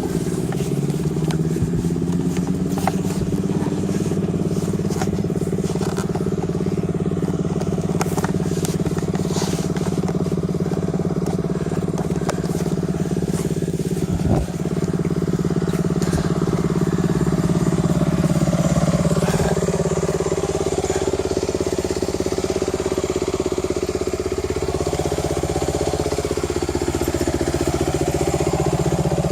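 Dirt bike engine running steadily, its pitch dipping and rising again a couple of times in the second half as the throttle changes. One sharp knock about fourteen seconds in.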